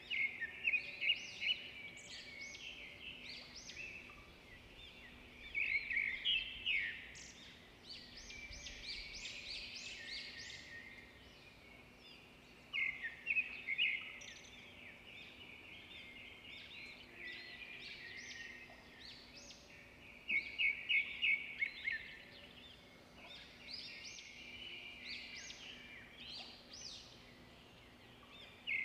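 Birds chirping, with a burst of quick high chirps roughly every seven seconds and softer calls in between. A faint steady hum runs underneath.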